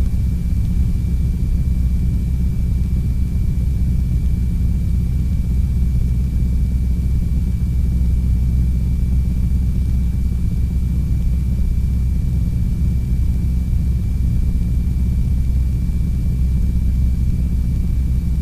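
North American T-6 Texan's Pratt & Whitney R-1340 Wasp radial engine droning steadily at climb power, heard inside the closed cockpit, with a thin steady high whine over the low rumble.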